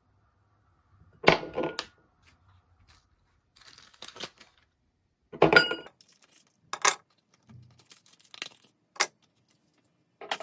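Kitchenware being handled: two loud clatters with a brief metallic ring, about a second and five and a half seconds in, and lighter clinks and clicks between them.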